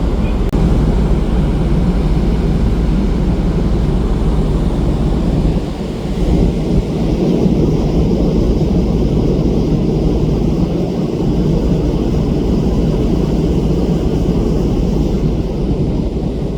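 Loud, steady rumble and rushing noise aboard a ferry under way, the ship's running noise mixed with rushing air and sea, dipping briefly about six seconds in.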